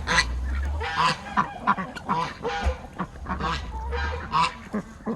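Domestic geese honking in a string of short calls, one or two a second, with other poultry calling among them. A low rumble comes and goes under the calls.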